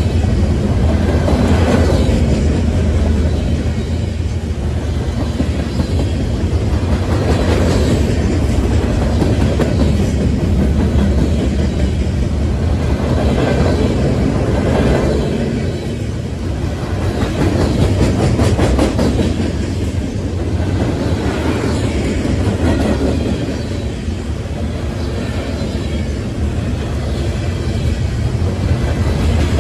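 Freight train of flatcars loaded with steel pipe rolling past, with a steady heavy rumble of steel wheels on rail. Wheelsets clickety-clack over rail joints, and the sound swells and eases every few seconds as each car goes by.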